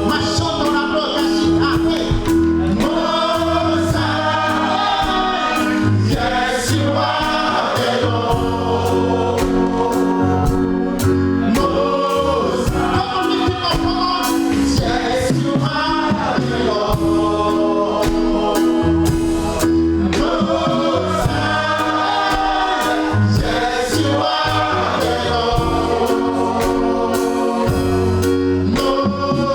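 Gospel choir singing with a live band of drums and held keyboard chords.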